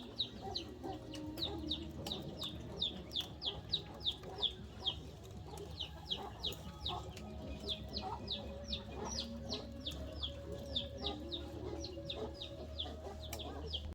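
Chickens calling: a long run of short, high, downward-sliding peeps, about three or four a second, over lower clucking.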